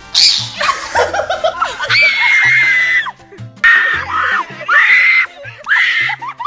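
A person making weird high-pitched vocal sounds: about six squealing, shriek-like bursts. The longest is held at one pitch for about a second, about two seconds in.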